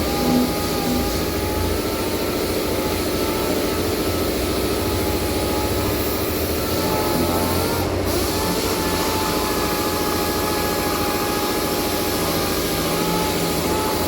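A machine running steadily, a low rumble and noise with a faint wavering whine over it.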